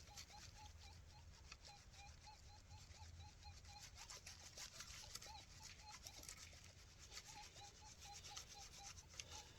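XP Deus 2 metal detector sounding faintly on a strong target, a short beep repeated about five times a second as the coil is worked over it, stopping for a few seconds in the middle and then resuming.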